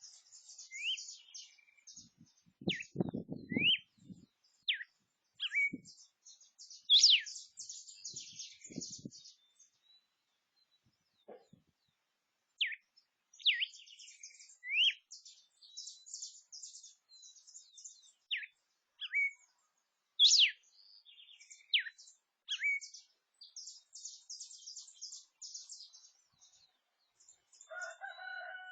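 Songbirds chirping and twittering: quick, sharp whistled notes that slide steeply in pitch over busy high chatter, with a short pause midway. A few low thuds come in the first few seconds.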